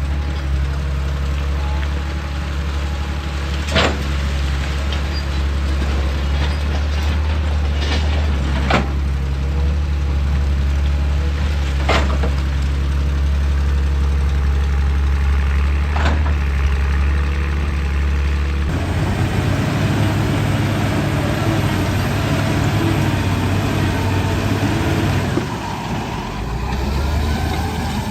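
A hydraulic excavator's diesel engine running steadily, with a few sharp knocks of metal on rock spaced a few seconds apart. About two-thirds of the way through, the engine note changes and becomes rougher.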